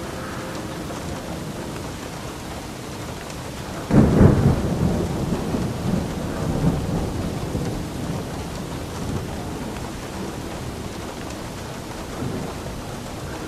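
Steady rain with a clap of thunder about four seconds in, a deep rumble that rolls on and fades over several seconds.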